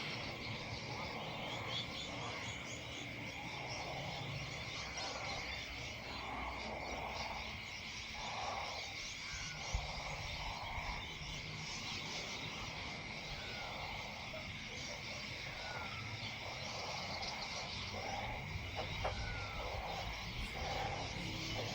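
Frogs croaking in repeated calls every second or two, over a steady high drone.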